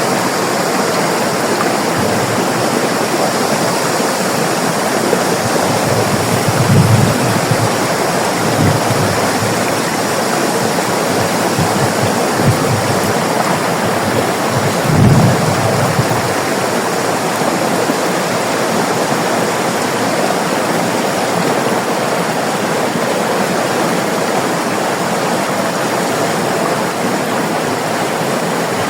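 River water rushing and burbling steadily, a constant full hiss with a few brief deeper surges about 7, 9 and 15 seconds in.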